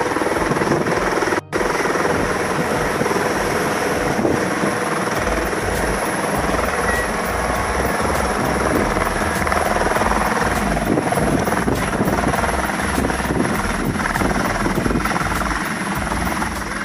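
Helicopter running close by, its rotor and turbine giving a loud, steady noise with a low beating pulse that grows stronger about five seconds in; the sound cuts out for an instant about a second and a half in.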